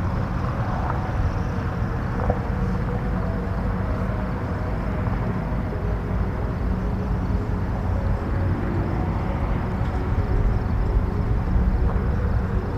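Steady low wind rumble with an even hiss above it and a few faint held tones.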